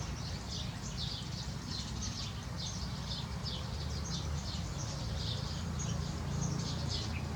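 A small bird chirping over and over, about two short high chirps a second, over a steady low rumble.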